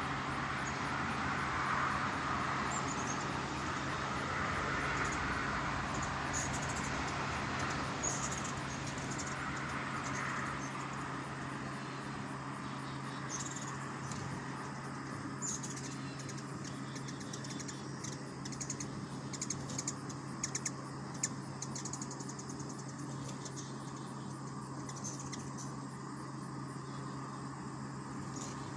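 Hummingbirds at a feeder giving short, high chip notes scattered through, over steady background noise with a constant low hum. A quick run of sharp ticks comes about two-thirds of the way through.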